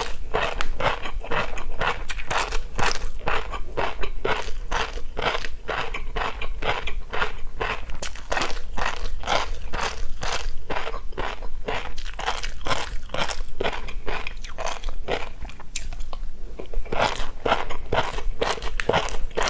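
Close-miked chewing of tobiko (flying fish roe), a rapid run of crisp pops and crunches as the roe grains burst between the teeth, with a brief lull about three-quarters of the way through.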